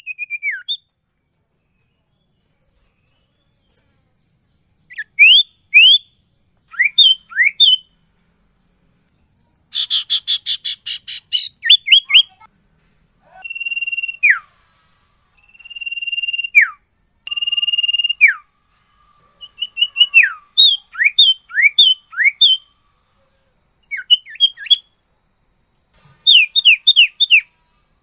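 Sirtu songbird singing in full voice, starting about five seconds in: loud, sharp whistles sliding downward ('nyiul nyiul'), given in quick groups of two to five, a rapid buzzy trill about ten seconds in, and three held whistles that each drop sharply at the end. A song rich in 'isian', phrases taken from other birds.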